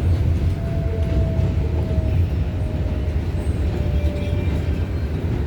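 Interior of an R188 subway car running between stations: a steady low rumble of wheels on rail, with a faint high whine that glides slightly down in pitch and fades near the end.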